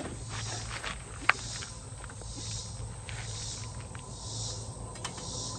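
Outdoor insect chorus, a steady high buzzing that swells and eases about once a second, with a single sharp click just over a second in.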